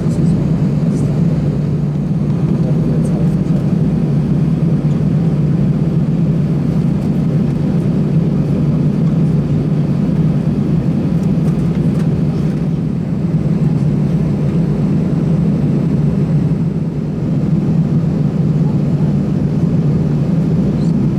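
Steady cabin drone of an Airbus A320 taxiing on the ground, its engines running at low thrust, with a strong low hum and no change in pitch.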